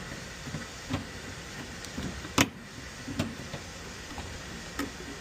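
Sharp clicks and knocks of plastic drain tubes and fittings being handled and pulled off a furnace's condensate drain trap. There are four or five, the loudest about two and a half seconds in, over a steady low hum.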